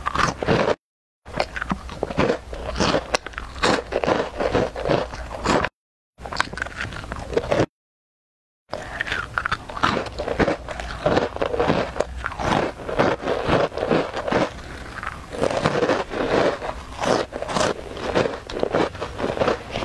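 Close-miked crunching and chewing of crisp puffed snacks, many irregular crunches in quick succession. The sound cuts off abruptly to silence three times in the first half.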